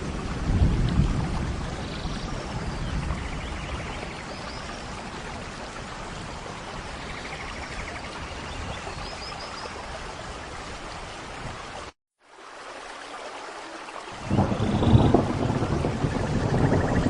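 Recorded rain-and-thunder ambience: steady rain with low rolls of thunder, one swelling about half a second in and another starting about fourteen seconds in. The track cuts out completely for a moment about twelve seconds in.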